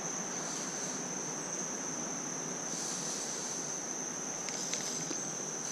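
An insect trilling on one unbroken high pitch over the steady rush of flowing creek water.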